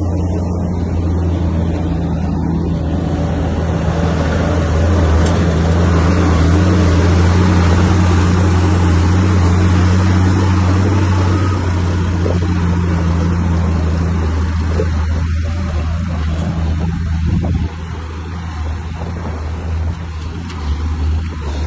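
Bulldozer's diesel engine running under load, a steady low drone that eases off about three-quarters of the way through.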